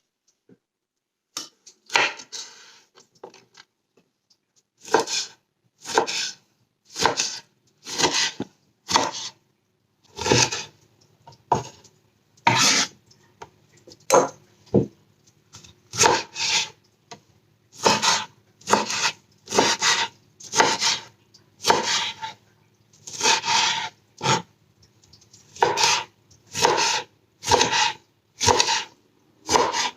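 Rhythmic rasping strokes of food being worked by hand against a rough surface while the gravy ingredients are prepared, about one stroke a second.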